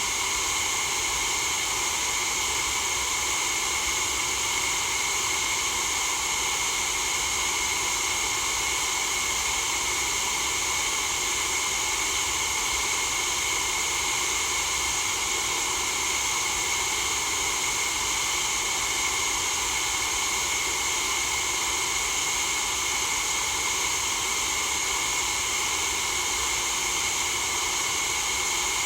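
Steady white noise: an even, unbroken hiss with no change in level or pitch.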